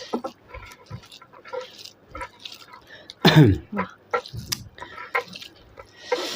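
Close-up mukbang eating sounds of chicken and soup: a run of short wet mouth smacks and chewing clicks, with one louder falling sound about three seconds in and a longer hissy slurp near the end.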